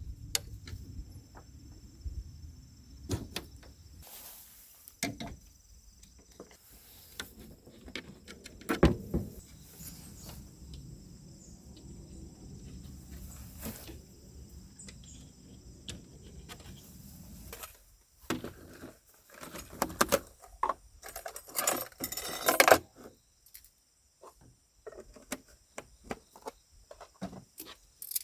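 Scattered clicks, knocks and rattles of objects being handled, with a sharp knock about 9 s in and a burst of rattling and clattering about 20 to 23 s in, over a low rumble during the first part.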